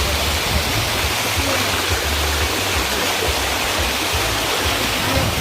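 Steady rush of flowing water cascading down a small river waterfall, with a low rumble underneath.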